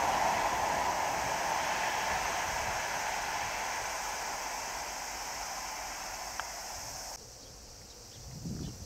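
Rolling noise of a passing train fading steadily as it draws away, cutting off abruptly about seven seconds in.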